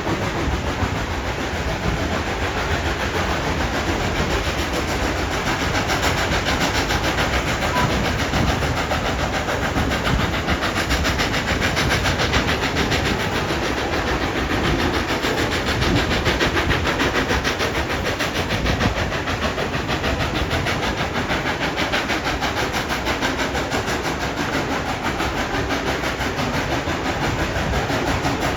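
A steam-hauled passenger train running along the track, with a steady rumble and clatter of wheels on rails and a hiss.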